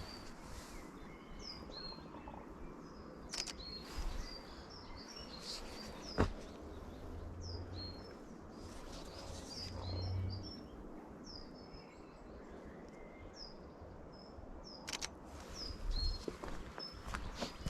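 Small songbirds chirping and whistling, a steady run of short high notes, over a steady outdoor hiss, with a few sharp clicks.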